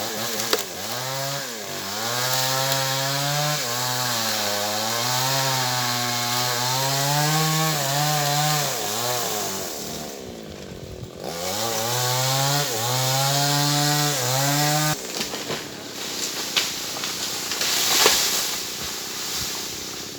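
Stihl 070 two-stroke chainsaw running under load through sengon wood, its engine note rising and falling as it cuts. The engine note sags briefly about halfway through, then cuts off abruptly about three-quarters of the way through, leaving a rougher noise with a few knocks.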